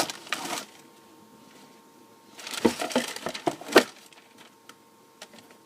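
Handling noises while unboxing football boots: rustling and scraping with a few sharp knocks, in two short bursts, one at the very start and one about two and a half seconds in.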